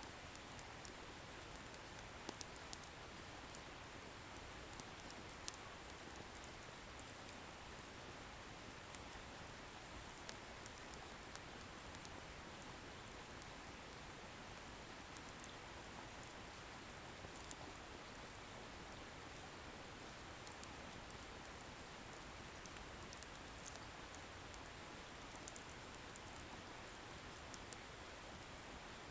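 Wood bonfire burning with a soft, steady hiss and scattered small crackles, a few louder pops of the firewood here and there.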